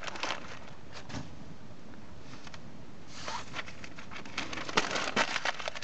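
Bonfire of burning paper crackling: a steady hiss with scattered sharp crackles, clustering about three seconds in and again near the end.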